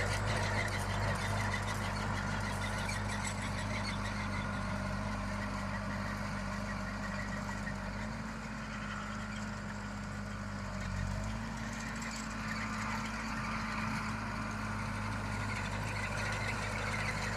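Farm tractor engine running steadily at work in the field. Its note steps up slightly about eight seconds in and again about three seconds later.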